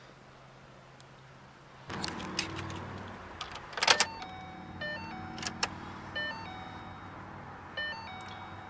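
Inside a 2012 Ford Mustang's cabin, a few sharp clicks sound and a low steady hum comes on about two seconds in. A series of short electronic chime tones from the car's electronics then repeats several times.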